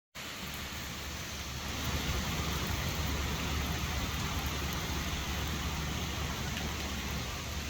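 Steady rain falling, with a low rumble underneath, cutting in abruptly from silence just after the start.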